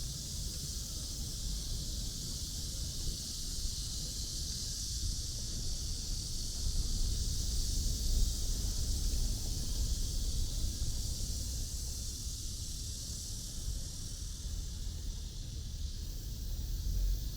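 Outdoor walking ambience: a steady high hiss over a low, unsteady rumble, with no distinct events.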